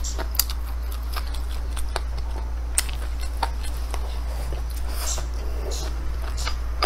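A person chewing a mouthful of fried rice close to the microphone, with scattered short clicks of eating, over a steady low hum.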